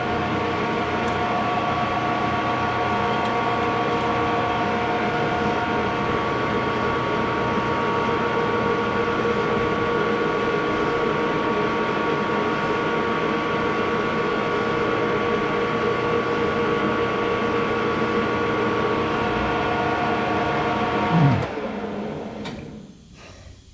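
Metal lathe running steadily with a parting tool cutting off a small turned part, a constant motor and gear hum under a noisy cutting hiss. About 21 seconds in, a falling whine as the lathe is switched off and spins down.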